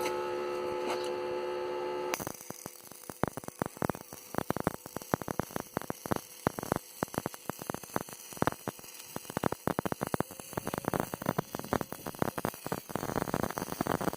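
A steady electrical hum for about two seconds. Then the arc strikes, and an E6011 stick-welding electrode crackles irregularly and continuously as the weld bead is run.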